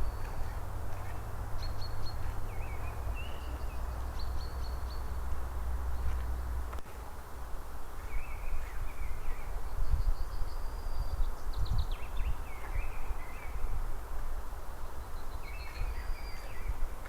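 Birds calling over and over in short, high chirps and trills, against a steady rushing background. Under them runs a low rumble that drops away about seven seconds in.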